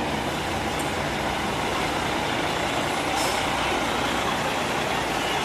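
Trucks passing one after another with their engines running, a steady rumble of engines and tyres.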